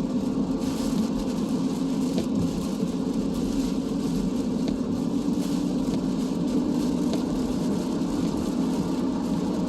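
Steady cabin noise of a car driving on a wet highway: a constant low drone of tyres and engine with the hiss of rain and road spray.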